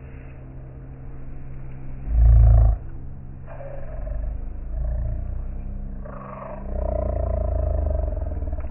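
Wood fire burning, with low rumbling surges: a short loud one about two seconds in, then longer, gentler swells later on.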